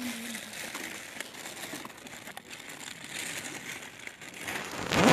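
Close crinkling and rustling of wrapping being handled during a meal, with a louder, sharper burst of the same rustle near the end.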